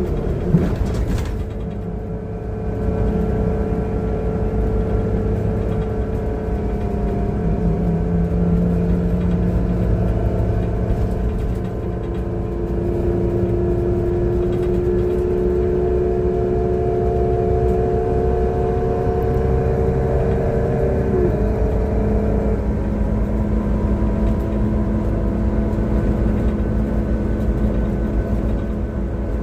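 City bus engine and drivetrain heard from on board while under way: a low rumble with a whine of several tones that rises slowly, then drops off about two-thirds of the way through. The uploader calls it a bad engine sound. A single knock sounds near the start.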